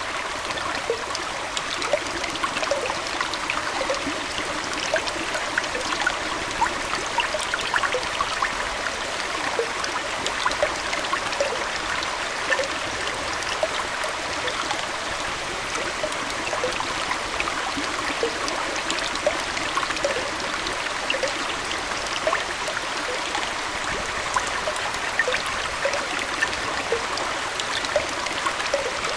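Aquarium water flowing and trickling steadily, like a small indoor stream, with many tiny splashes and plinks throughout.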